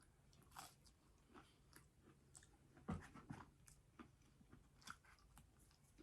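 Faint, close-up chewing of food: soft wet mouth smacks and small clicks at an uneven pace, one louder smack about three seconds in.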